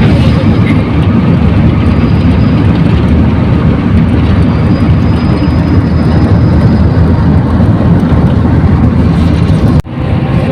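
Steady loud rumble of a moving vehicle at road speed: engine, tyre and wind noise heard from on board. The sound briefly drops out near the end.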